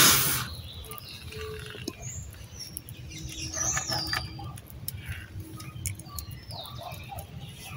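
Small birds chirping, several short gliding calls, over light rustling and clicking of a dry grass tinder bundle being handled. A strong blowing hiss on an ember cuts off about half a second in.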